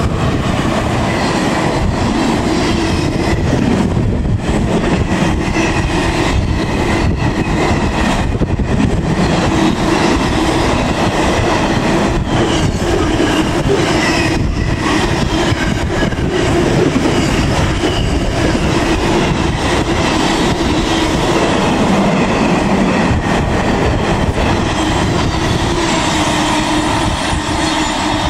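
Long intermodal freight train of container wagons rolling past close by: a steady, loud rumble of wheels on the rails with clatter over the joints.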